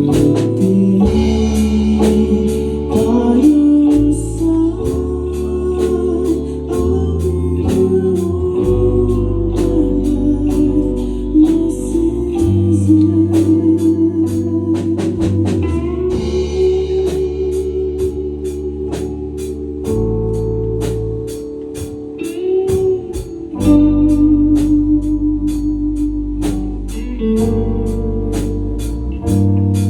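A band playing a song: long held chords over a moving bass line, with a steady beat of drum or cymbal hits.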